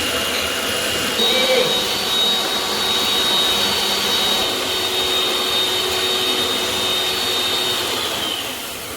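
Electric egg beater whipping egg whites in a bowl toward stiff peaks, a steady whirring motor that begins to wind down near the end.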